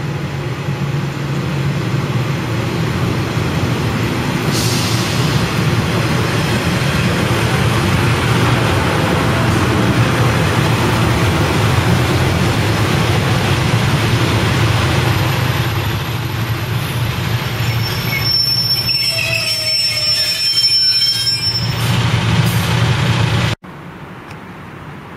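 Diesel multiple unit train running into the platform, a steady loud engine drone under wheel and rail noise. Metallic squealing joins in for a few seconds near the end as it slows. The sound cuts off abruptly just before the end.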